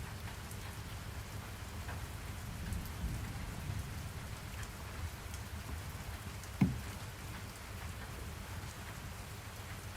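Steady rain noise from a rain white-noise track, heaviest in the low end. A single short, sharp thump about two-thirds of the way through is the loudest sound.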